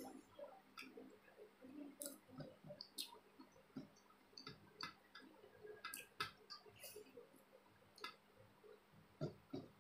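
Faint eating sounds of rice and chicken curry being eaten by hand: scattered small clicks and wet mouth noises of chewing, with no talking.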